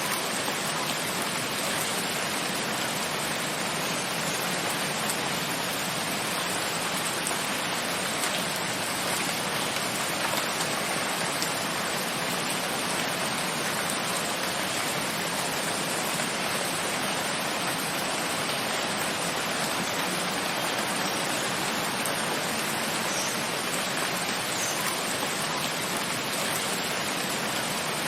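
Steady rain falling, an even hiss with no change in strength and a few faint scattered drop ticks.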